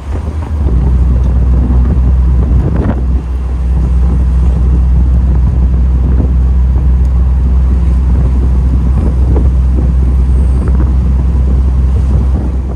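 A 1979 MGB's four-cylinder engine runs with a steady low drone at cruising speed, with wind and road noise rushing past.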